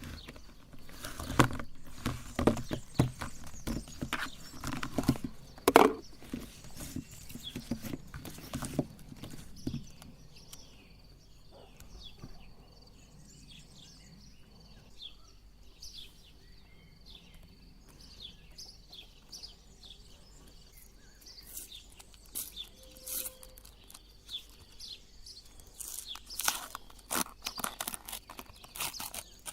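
Crisp ice cream cones crunching and cracking as a meat grinder crushes them, in irregular clicks and cracks. The crunching is dense and loud for about the first ten seconds, thins to scattered faint cracks through the middle, and grows dense again near the end.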